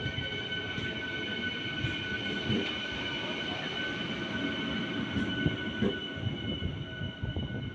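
Indian Railways express train running past: a low rumble with irregular clanks and knocks under a steady high-pitched squeal.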